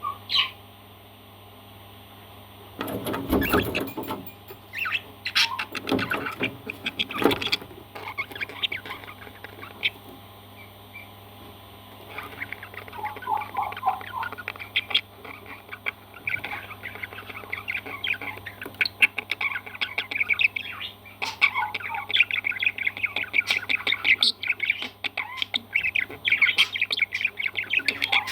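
Parrot squawking and chattering: a few loud harsh squawks early on, then from about twelve seconds in a rapid, continuous chirping chatter.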